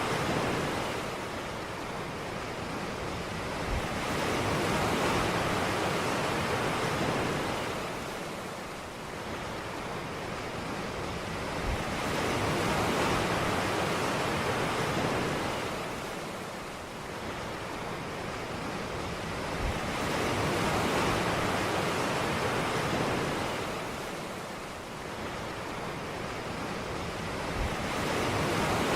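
Sea waves breaking on a beach and washing back, swelling and fading about every eight seconds.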